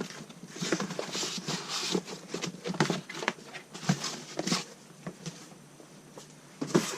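Rustling of packaging and light knocks of parts being handled, irregular for about five seconds, then quieter with one sharper knock near the end.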